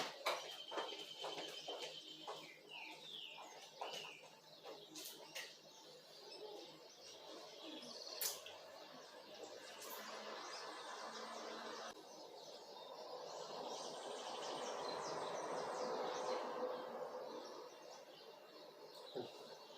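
Small birds chirping and tweeting in short scattered calls, over outdoor background noise that swells into a steady rush in the second half and then fades.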